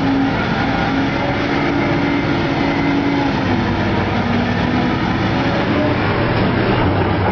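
Heavy diesel construction machinery running steadily under load, a dense, loud engine and machine noise with a shifting low hum.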